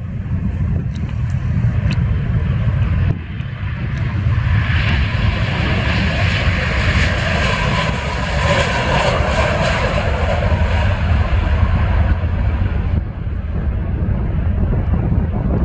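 Jet airliner's engines swelling to a loud rush about four seconds in and fading again near the end, over a steady low rumble of wind on the microphone.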